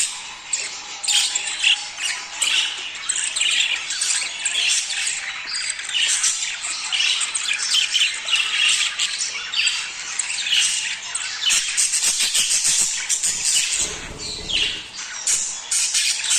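A flock of budgerigars chattering and squawking, with many calls overlapping, the kind of flock chatter used to prompt budgies to breed. The calls thin out briefly about fourteen seconds in, under a low rustle.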